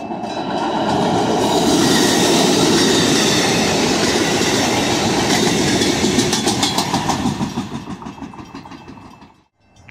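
Passenger train passing close by at speed: a loud, steady rush of wheel and rail noise that builds over the first second or so. A fast, even clatter of wheels comes in about five to seven seconds in, then the sound fades away as the train recedes.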